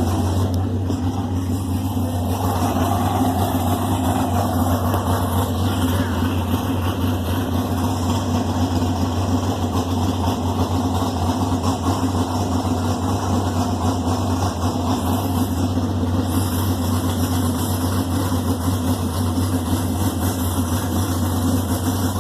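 Race car engine idling steadily with a deep, even note.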